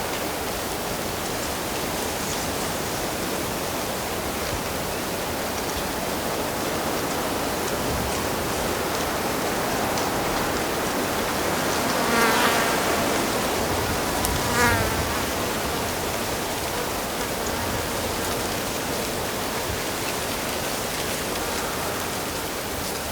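Steady rush of a flowing stream, with an insect buzzing past twice: a second or so of buzzing about twelve seconds in, and a shorter one about two seconds later.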